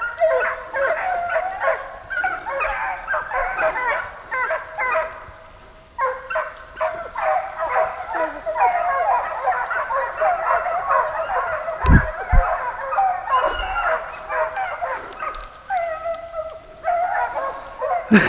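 A pack of deer dogs baying on a running deer, many voices overlapping, with a short lull about five seconds in. The baying means the dogs are on the deer's track. Two low thumps come about twelve seconds in.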